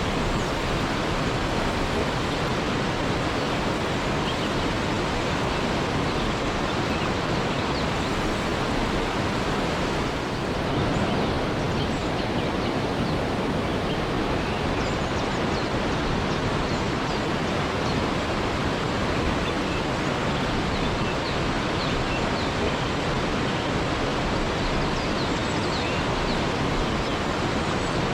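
Waterfall: a steady, unbroken rush of falling water, with faint short high chirps scattered through it.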